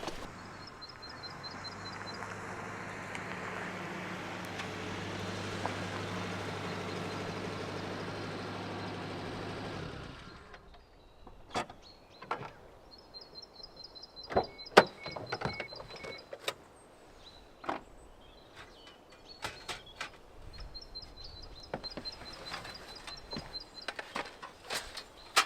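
A small motor runs steadily for about ten seconds and then stops. Scattered sharp taps and knocks follow, and a bird trills twice in the background.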